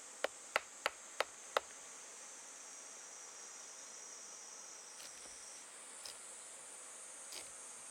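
Insects chirring: a steady high-pitched trill that holds throughout, with five sharp clicks about a third of a second apart in the first second and a half, and a few faint ticks later.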